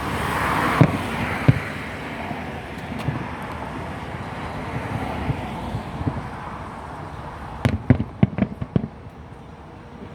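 Fireworks going off: an even crackling hiss with single sharp bangs early on, then a quick cluster of several bangs about eight seconds in.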